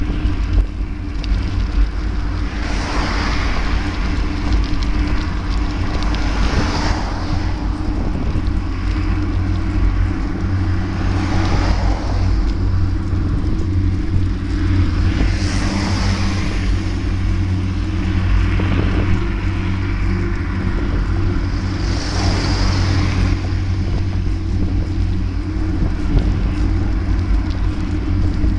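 Steady road and wind rumble of a moving ride, with a vehicle swelling past about five times.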